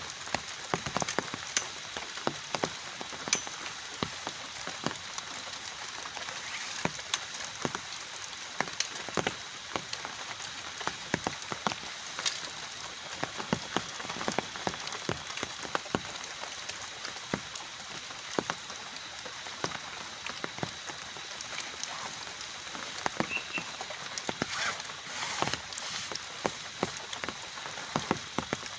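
Steady rain with many heavy drops tapping irregularly on a surface.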